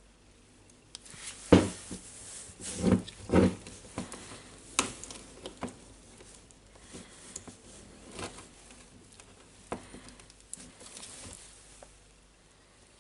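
Hands handling small tool parts on a bench: a few sharp knocks in the first few seconds, then scattered light clicks and rustling.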